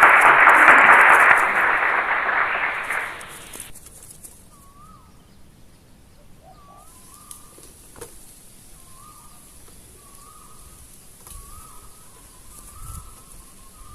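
A loud rushing noise that cuts off sharply after about three and a half seconds, then a spotted dove cooing softly in short repeated phrases, about eight times.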